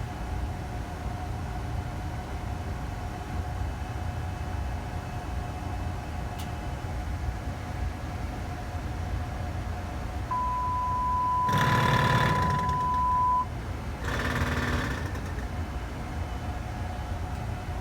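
Steady hum and rumble of a Boeing 787-9 with its systems powered up. About ten seconds in, a steady high beep sounds for about three seconds, overlapped by two short bursts of rapid mechanical buzzing, the first the loudest.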